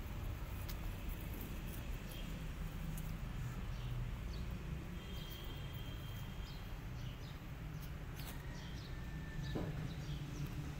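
Outdoor ambience: a steady low rumble with faint, scattered bird chirps and a thin whistled note about halfway through.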